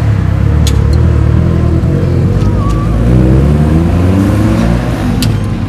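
Car engine running loud and accelerating, its pitch rising about three seconds in.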